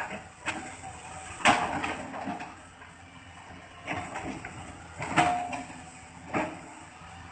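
Heavy machinery running steadily, with sharp knocks every second or so as it chops into wood; the loudest knock comes about one and a half seconds in.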